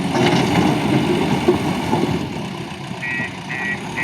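Backhoe loader's diesel engine running, louder for the first couple of seconds. Near the end its reversing alarm starts beeping about twice a second.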